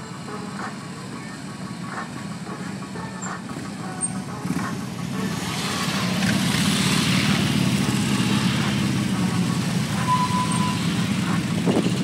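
Several police motorcycles riding in formation, their engines running steadily and growing louder about five seconds in as they come closer.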